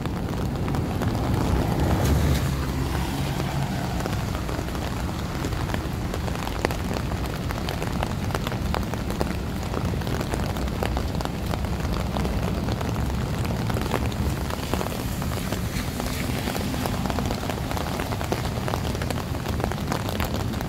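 Steady rain falling on wet pavement, with many individual drops ticking close by and a low rumble underneath.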